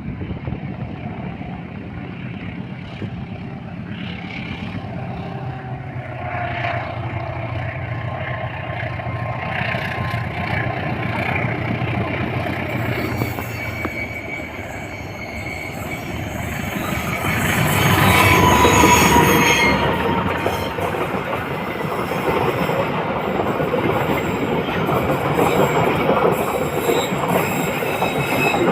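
Diesel-hauled passenger train running through a sharp curve on single track: a steady low engine hum, then the carriages rolling past with thin wheel squeal against the curved rail, loudest a little past the middle.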